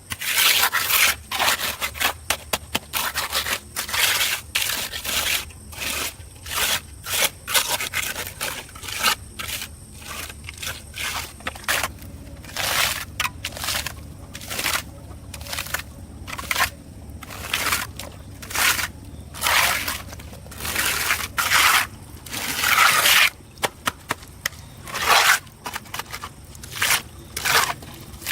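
Repeated short scraping strokes at an irregular pace, each lasting under a second.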